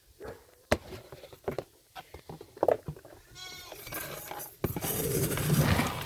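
Goats bleating, with a few sharp knocks and clicks. A loud rushing noise sets in suddenly near the end.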